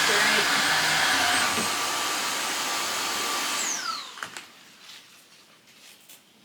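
Tineco Floor One S5 cordless wet-dry vacuum mop running steadily with a high whine. It is switched off a little under four seconds in, and its motor winds down with a falling whine. A few faint clicks follow.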